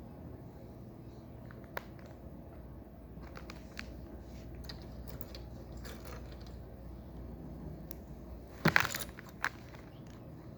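Plastic Lego pieces clicking and rattling as they are handled during a build, with scattered small clicks and a louder clatter of pieces about eight and a half seconds in.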